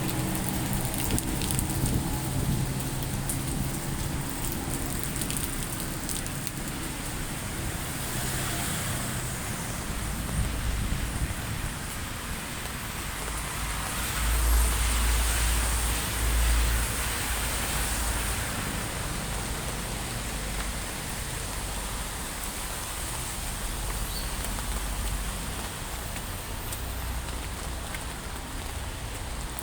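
Heavy rain falling with a steady hiss. A vehicle engine hums for the first few seconds, and a low rumble swells and fades in the middle as a vehicle passes.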